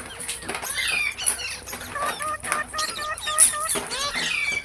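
Pet green parrot, an Indian ringneck, chattering with short bending squawks and whistles. About halfway through it breaks into a quick run of short, evenly repeated clucking notes, about four a second.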